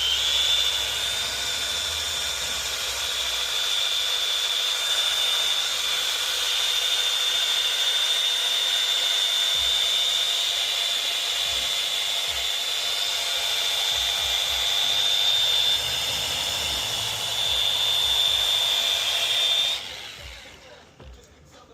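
Rotary polisher with a 500-grit Mirka Abralon sanding pad, wet-sanding a whitewall tyre: a steady high whine that stops near the end.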